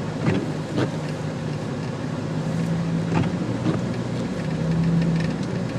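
Jeep TJ engine running steadily under way, with road noise, a drone that swells briefly near the end, and a few scattered light knocks.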